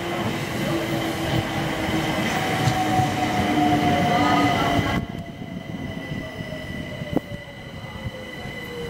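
Southeastern electric multiple-unit train pulling into the platform and slowing, its wheels rumbling on the rails under steady high-pitched whines. The noise drops sharply about five seconds in, leaving the whines and a lower motor whine that falls in pitch as the train slows. There is a single click near the end.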